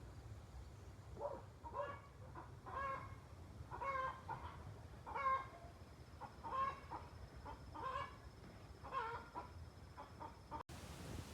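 Chickens clucking: a string of about eight short calls, roughly one a second, which cut off suddenly near the end.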